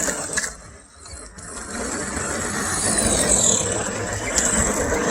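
Brushed electric RC monster trucks running, a high motor-and-gear whine mixed with tyre noise. It drops away about a second in, then builds back up as they accelerate again.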